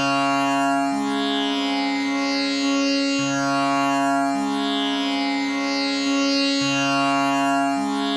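Tanpura tuned to C sharp, playing a continuous drone: its strings are plucked one after another in a repeating cycle of about three and a half seconds, each new pluck adding a low note over a steady, richly overtoned hum.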